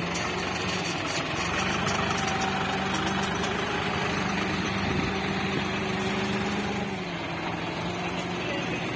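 John Deere 55 hp tractor's diesel engine running steadily at a low, even speed, its pitch shifting slightly a couple of times.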